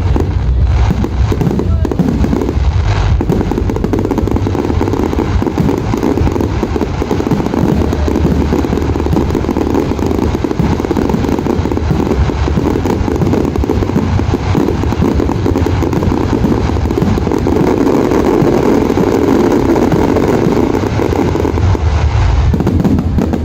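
Fireworks display in a dense barrage: bangs and crackles so close together that they merge into one continuous, loud rumble, with no break.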